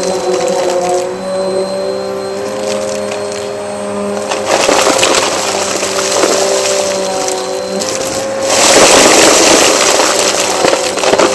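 Vacuum cleaner running with a steady motor whine, crackling and clicking as it sucks up debris; a louder rush of air about eight and a half seconds in lasts a second or two.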